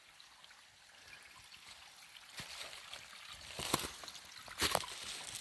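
A small stream trickling and running, louder after about a second, with a few sharp clicks or knocks in the second half.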